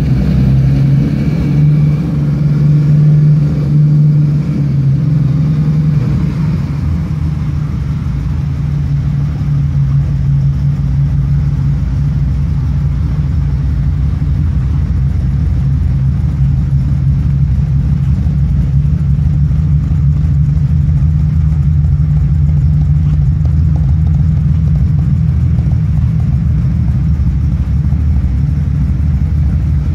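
Ferrari 365 GTC/4's V12 engine idling, running a little faster for the first few seconds before settling into a steady idle.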